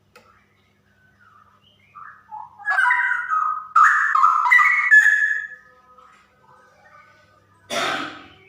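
Straw-headed bulbul (cucak rowo) singing a loud run of liquid whistled phrases that lasts a few seconds, with quieter notes after it. Near the end comes a short harsh noisy burst.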